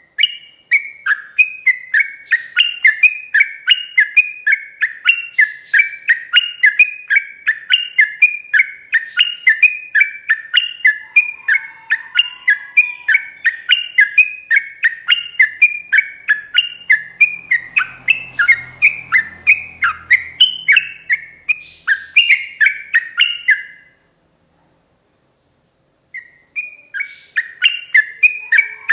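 Yellow-vented bulbul (trucukan) singing a long rapid run of short falling notes, a few a second. It breaks off near the end and starts again about two seconds later.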